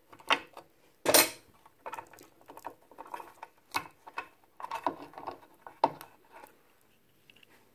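Hand tools and metal motor parts of a DeWalt DW718 miter saw clinking and knocking as a tight-fitting part is pried out during a bearing change. The knocks are irregular, with the loudest about a second in.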